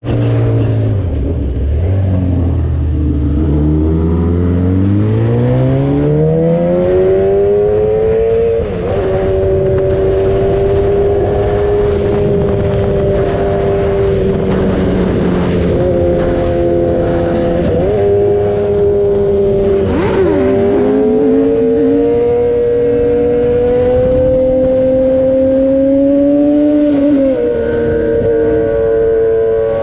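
Sport motorcycle engine on the move: it climbs steadily in pitch over the first several seconds, then holds a steady drone with short dips in pitch every few seconds, under continuous wind rush.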